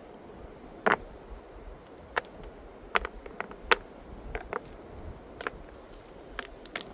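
A string of irregular sharp knocks and clicks, the loudest about a second in, over a steady low rumble.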